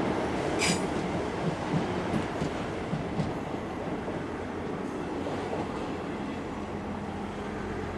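A train running on the rails with wheels clicking over the rail joints. Its rumble slowly dies away as it moves off.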